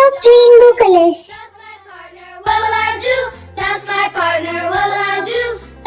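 Children's song: a high, child-like singing voice over a backing track. The song drops to a brief lull about two seconds in, then comes back with a bass line under the singing.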